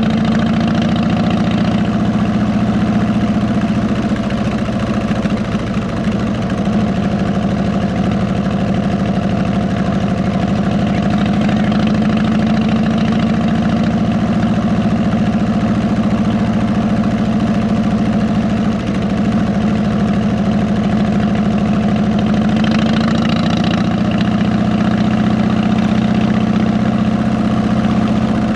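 Harley-Davidson Electra Glide Ultra Classic's V-twin engine running steadily through 33-inch fishtail exhausts, its note holding nearly the same pitch throughout.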